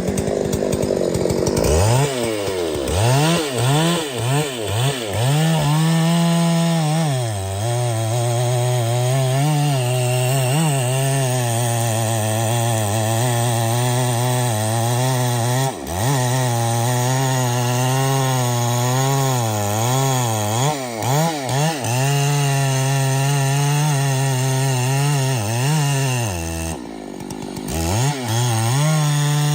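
Chainsaw running at high throttle while cutting wood. Its engine note rises and falls as the throttle is blipped and the chain is loaded, and it drops briefly several times, most clearly about three-quarters of the way through, before revving up again.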